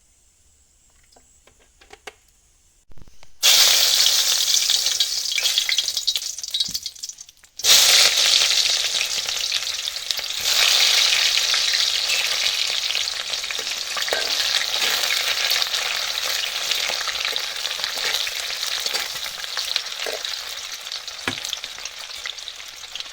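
Food sizzling in hot oil in a pan, starting suddenly about three seconds in after near quiet, with a brief break a few seconds later and light stirring clicks throughout.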